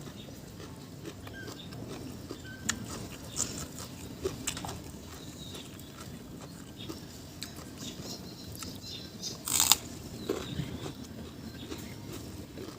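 Eating sounds: chewing, with scattered small clicks and ticks, and one louder noisy burst about nine and a half seconds in.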